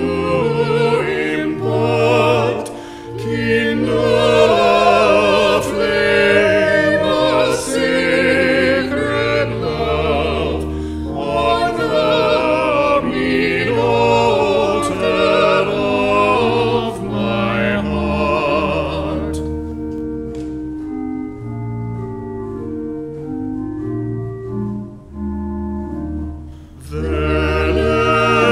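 Sung church music with organ accompaniment, the voices wavering with vibrato. About two-thirds of the way in the singing stops for an organ interlude of held notes lasting several seconds, and the singing resumes near the end.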